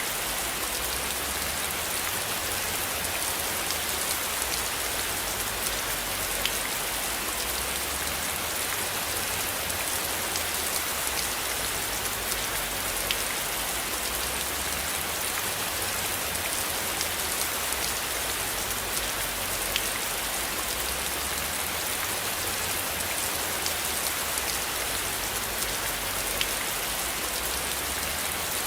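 Steady rain falling, an even hiss with a few single louder drop ticks now and then and a low rumble underneath.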